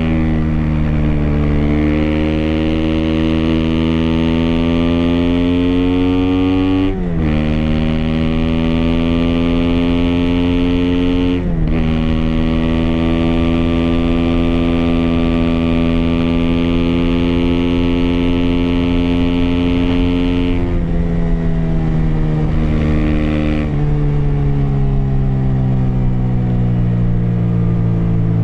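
Aprilia SX 125's single-cylinder four-stroke engine through an Arrow racing header and Arrow Thunder slip-on with dB-killer, accelerating under load. The pitch climbs slowly and drops sharply twice at upshifts. About 21 s in the throttle closes and the engine note falls away, with another step down a few seconds later.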